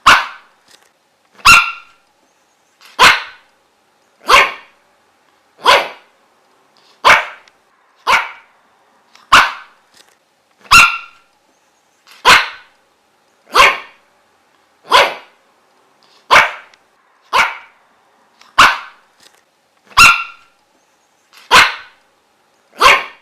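A dog barking in single sharp barks, one about every second and a half at a steady, repetitive pace.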